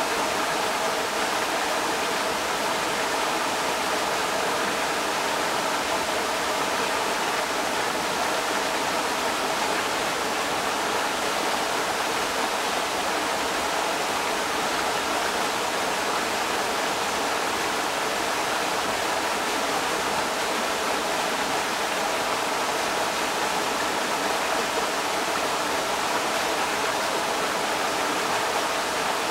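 Creek water rushing steadily over rocks, a constant even roar with no breaks.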